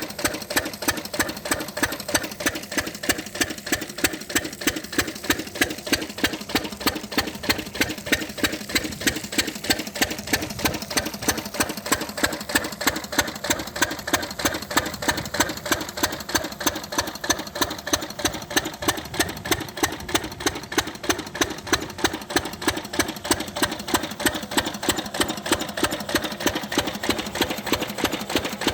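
10 hp single-cylinder stationary diesel engine running steadily at a constant speed, its firing an even, rapid beat of exhaust pulses.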